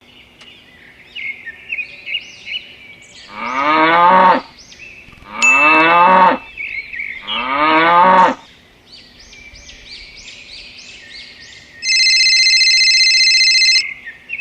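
Cow mooing three times, each call about a second long, with small bird chirps between the calls. Near the end a steady high-pitched tone starts and then cuts off suddenly.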